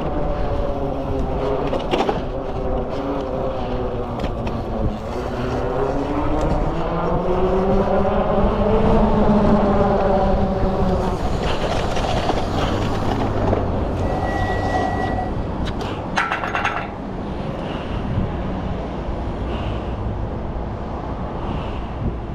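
Freego X2 electric dirt bike riding, its motor whine rising and falling in pitch with speed over wind and tyre noise. Partway through comes a brief high steady tone, then a few sharp clicks.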